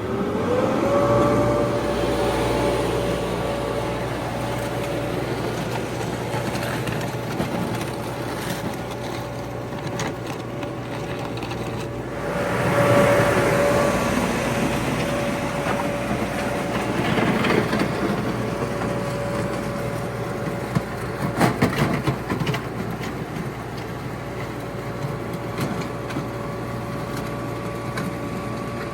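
Allis-Chalmers HD5 bulldozer working: its GM 2-71 two-stroke diesel revs up at the start and then runs steadily under load with a steady whine, over the clank and crunch of the steel tracks. A quick run of sharp clanks comes about three quarters of the way through.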